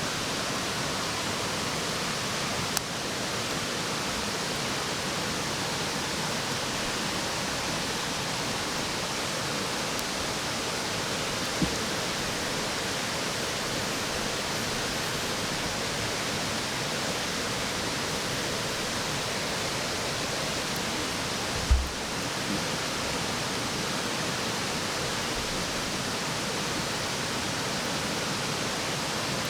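Steady rushing noise of running water, with three short knocks, the loudest about 22 seconds in.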